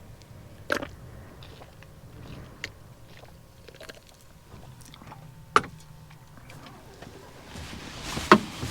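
A few sharp knocks and clicks, the loudest near the end, over a low steady hum.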